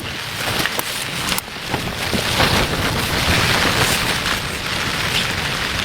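Rain and wind on a tent, heard from inside: a dense, steady hiss with scattered sharp taps.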